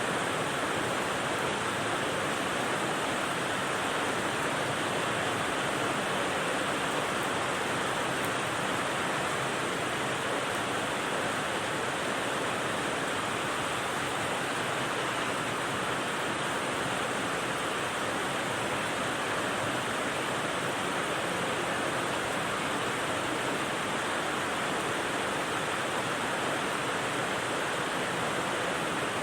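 Steady rain, an even unbroken hiss with no separate drops or thunder standing out.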